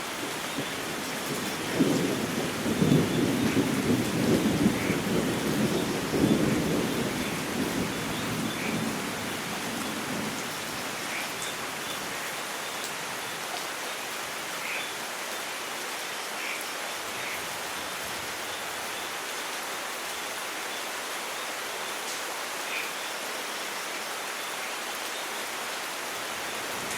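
Steady rain falling in a thunderstorm, with a rolling rumble of thunder that starts about two seconds in and dies away over the following several seconds.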